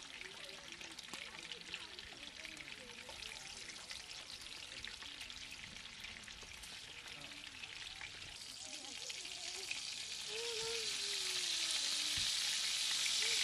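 Meat sizzling and frying in a pan on a portable camping grill, a steady crackling hiss that grows louder a little over halfway through.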